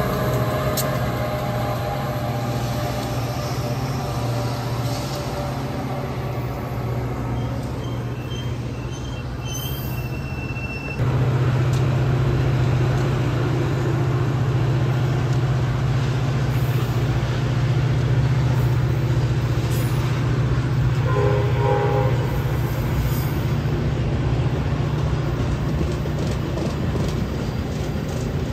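Metra commuter train hauled by an EMD F40PH diesel locomotive rolling past and pulling away: a steady low diesel drone over the rumble of double-deck coaches on the rails. The sound jumps louder about 11 seconds in, and brief faint tones sound near the middle and about two-thirds of the way through.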